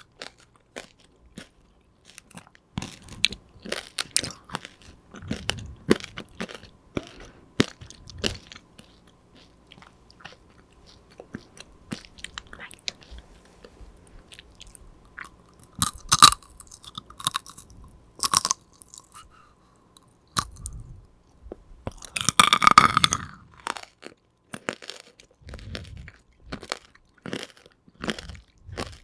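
Close-miked chewing and crunching of tanghulu, the hard sugar glaze cracking between the teeth in many small crackles. Louder bites crack through the candy shell near the middle, the loudest a longer crunch about three-quarters of the way in.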